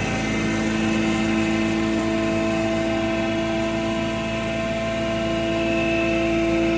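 Animal feed pulveriser machine running steadily, a constant mechanical hum with a held tone over a continuous grinding noise.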